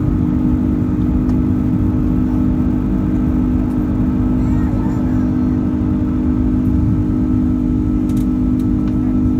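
Airbus A330-200 passenger cabin noise: a steady low rumble of engines and rushing air with a constant drone, unchanging throughout.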